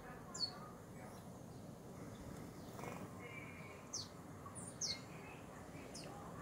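Small birds chirping: about five short, high chirps that slide sharply down in pitch, one near the start, then several close together in the second half, over a steady low background hum.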